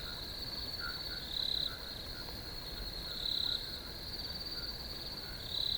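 Crickets trilling steadily in a high, unbroken chorus, with a louder high chirp coming back about every two seconds and scattered short, lower-pitched calls in between.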